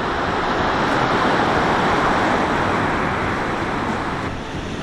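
A wave breaking and rushing up the beach, swelling over the first second or two and easing off near the end.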